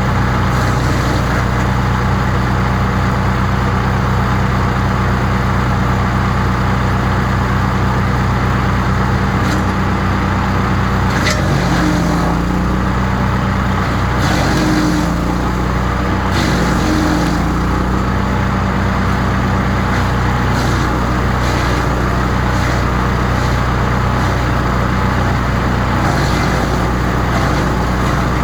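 Crytec 15 hp woodchipper engine running steadily at speed. About midway its pitch dips and wavers for a few seconds, with a few sharp cracks, before it settles again.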